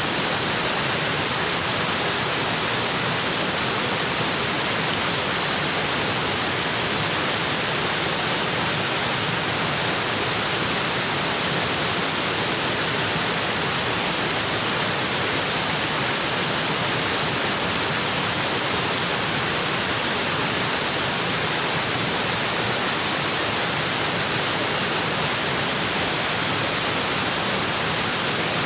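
Waterfall, water pouring steadily onto rocks with a constant hiss and rush.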